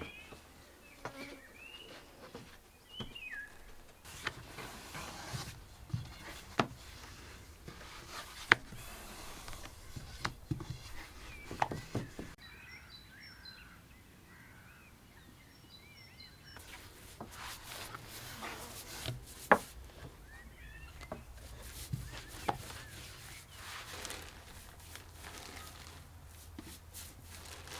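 Scattered sharp knocks and clinks of hands at work, with stretches of rustling and small birds chirping now and then in the background.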